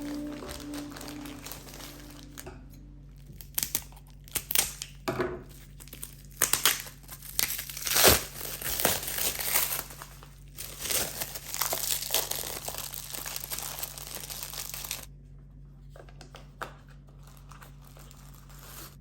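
Irregular crinkling and rustling of something being handled. It starts about three seconds in, is busiest in the middle and dies down near the end, over a steady low hum.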